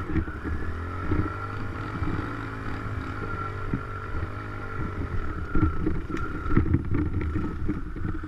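Dirt bike engine running while being ridden, its revs rising and falling, with scattered knocks and clatter from the bike over rough ground, most of them toward the end.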